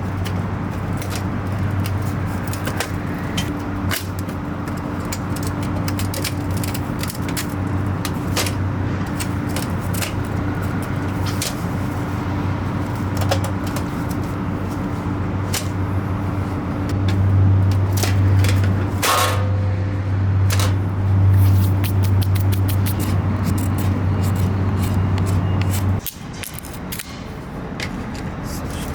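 Wood fire crackling with irregular sharp pops over a steady low hum; the hum cuts off suddenly near the end.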